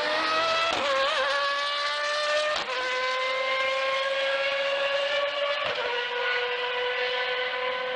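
Honda HSV-010 GT race car's V8 at full throttle and high revs. The pitch climbs, drops sharply with an upshift about two and a half seconds in, then holds high with another brief shift about two-thirds of the way through.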